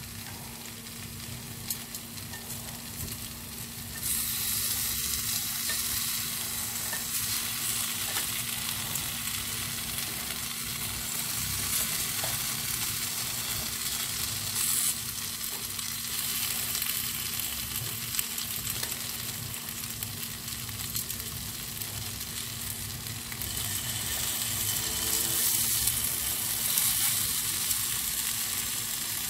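Spiced potato wedges sizzling in oil on a ribbed grill pan: a steady frying hiss that gets louder about four seconds in, with a few clicks of metal tongs as the wedges are turned.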